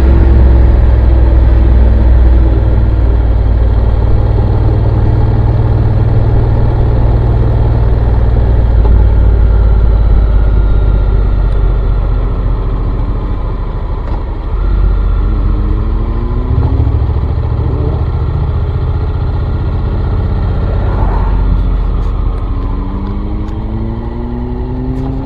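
Motorcycle riding at speed: a heavy low rumble with the engine's note underneath. In the second half the engine pitch rises several times in a row as it accelerates through the gears.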